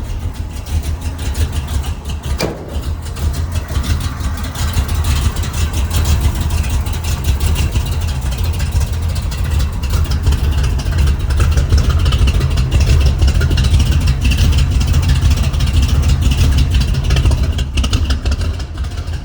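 1979 Ford F-150's carbureted engine with headers running on a cold morning shortly after a cold start, a steady, pulsing exhaust note. A single knock comes about two and a half seconds in.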